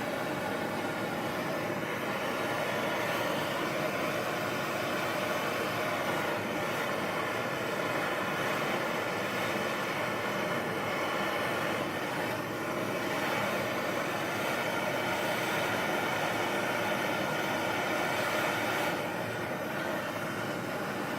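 Propane torch flame hissing steadily while heating a steel bolt-cutter handle toward a dull red so that it can be bent. It gets a little quieter near the end.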